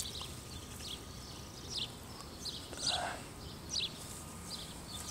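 Small birds chirping outdoors: a run of short, high chirps about one a second, with a slightly fuller call about three seconds in.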